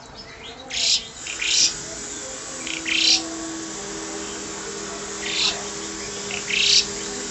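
Rosy starling calling loudly: short, harsh, rising calls in ones and pairs every second or two.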